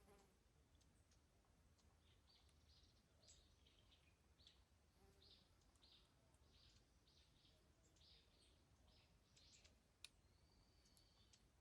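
Faint birds chirping, a string of short, repeated high calls, with one sharp click about ten seconds in.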